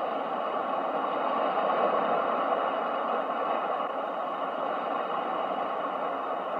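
Continuous rushing noise of ocean waves used as a sleep sound, swelling gently to a peak about two seconds in and then slowly easing off.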